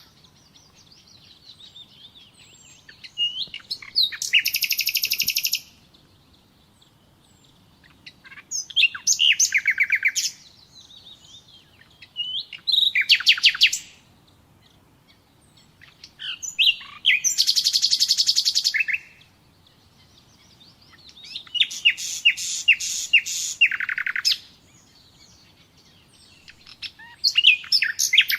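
Nightingale singing: six phrases of about two to three seconds, each a string of fast repeated notes and trills, with pauses of a few seconds between them.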